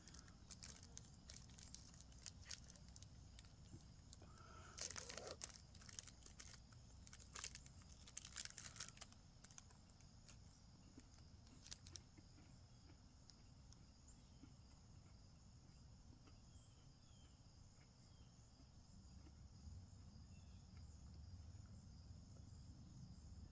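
Faint crinkling and tearing of a candy bar's plastic wrapper as a Butterfinger bar is opened, in scattered rustles over the first half, strongest around five and eight seconds in. Near silence after that.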